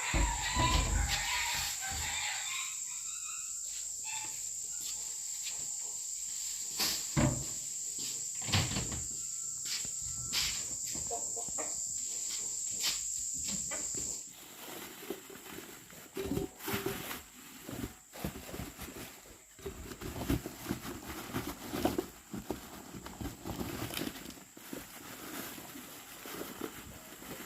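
An insect sings a steady, high-pitched trill that cuts off abruptly about halfway through. Scattered knocks and clatter of objects being handled run alongside it, with a few heavier thumps at the start.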